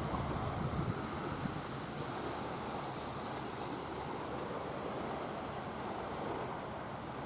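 Crickets trilling steadily at a high pitch over an even, low rushing noise.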